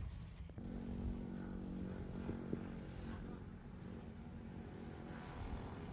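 An engine running steadily with a low hum that sets in about half a second in.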